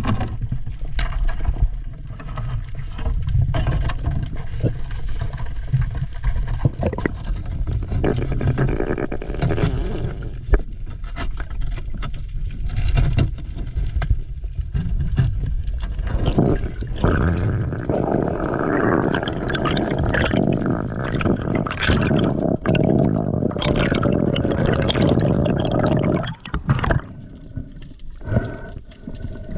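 Water sloshing and gurgling close to the microphone, with scattered knocks. From about 17 seconds in, a denser bubbling rush takes over, then it drops off shortly before the end.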